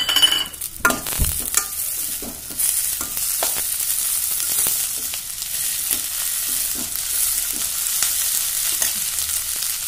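Green peas and sliced onions sizzling in hot oil in a stainless steel kadai, stirred with a steel spoon that knocks and scrapes against the pan, a cluster of clinks in the first second or so.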